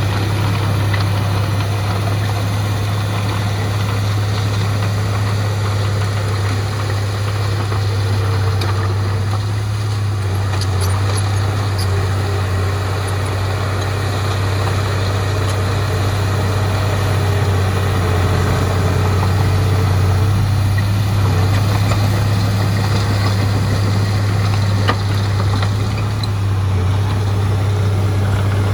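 Heavy diesel engine running steadily at an even pitch, with no revving.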